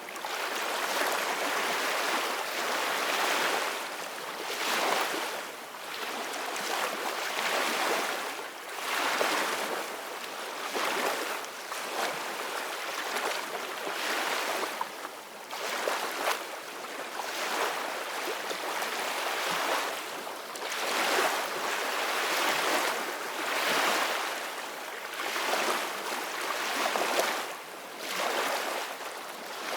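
Ocean waves breaking and washing in, a steady rushing surf that swells and fades every few seconds.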